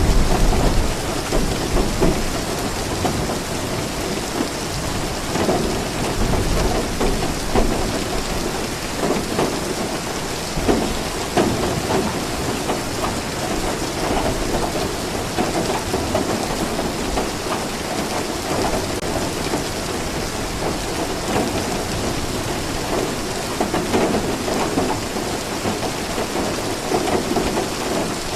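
Steady heavy rain falling, with low rumbles of thunder, the strongest right at the start.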